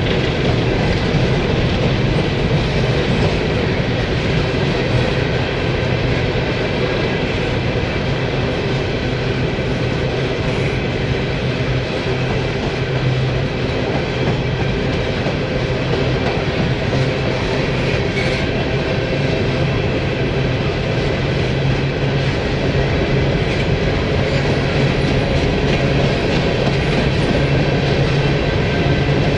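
Rail freight train of CSX coal hopper cars rolling past close by: a steady, loud rumble of steel wheels on rail, with a rhythmic clickety-clack from the wheel sets.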